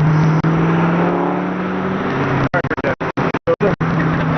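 Car engine running at a steady speed, easing off about two seconds in. The sound cuts out completely in several short gaps in the second half before the steady running resumes.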